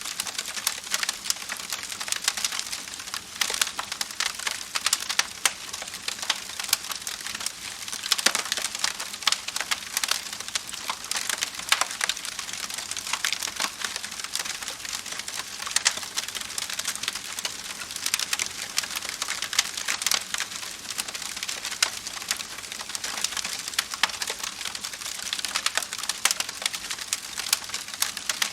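Burning campfire crackling steadily: dense small snaps and pops from the wood, with a few louder pops standing out.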